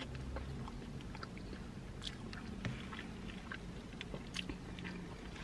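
A person chewing a mouthful of crispy fried chicken sandwich, with soft, irregular mouth clicks and smacks.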